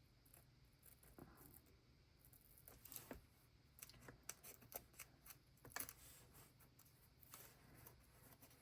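Faint scattered clicks and scratches of a cutting tool going through thick tape on journal paper, re-cutting where the first cut did not get through both layers of tape.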